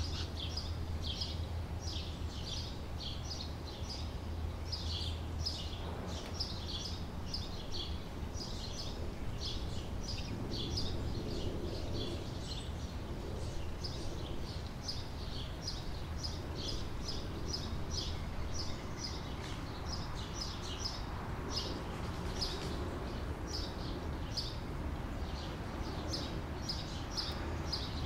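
Small birds chirping, short high calls repeating several times a second, over a steady low hum.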